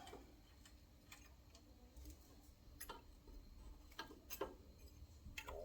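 Near silence with a handful of faint, irregularly spaced clicks and taps from small parts or hand tools being handled.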